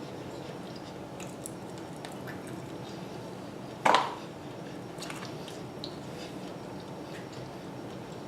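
Close-miked eating of chicken wings: faint wet chewing and mouth clicks over a steady air-conditioner hiss, with one sharp, loud click about four seconds in.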